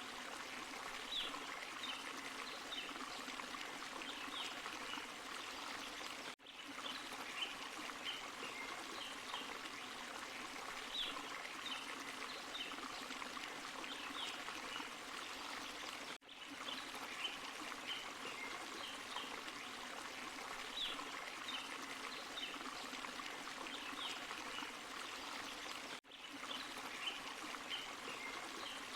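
Forest stream and small waterfall running, a steady rush of water with short high-pitched blips scattered over it. The sound cuts out briefly three times, about ten seconds apart.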